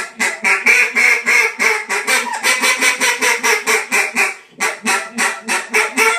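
New Era Duck Nasty double-reed poly duck call blown in a fast run of quacks, about four a second, with a short break about four and a half seconds in before the quacking picks up again.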